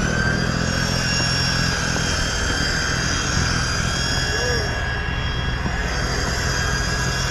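An engine running steadily at constant speed, a low hum with a thin high whine over it.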